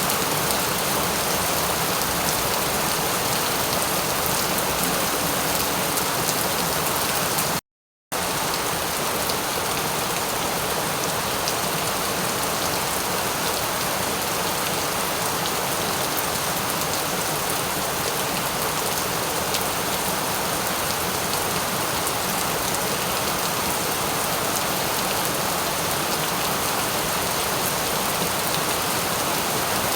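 Steady, heavy rain falling, an even hiss with fine drop patter, cut by a sudden half-second dropout to silence a little before eight seconds in.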